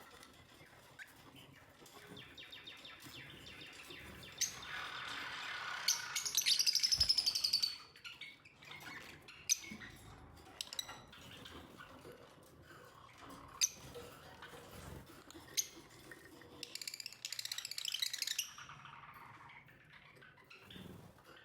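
Lovebirds chattering, with two louder bursts of rapid, high-pitched calls, one about six seconds in and one about seventeen seconds in, and scattered sharp clicks between them.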